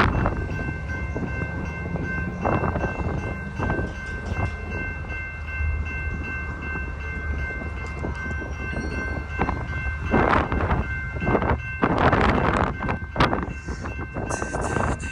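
An empty coal train rolling past with a steady low rumble and a thin, steady high-pitched tone over it. Strong wind buffets the microphone in gusts, heaviest about two-thirds of the way through.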